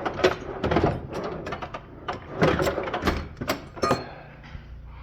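Tools and metal parts clattering and clanking, a string of irregular knocks and clicks, while rummaging for a compression gauge. A steady low hum comes in near the end.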